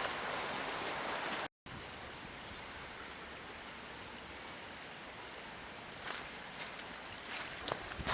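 Steady hiss of rain falling on woodland, with one short high whistle about two seconds in and a few soft footstep knocks near the end.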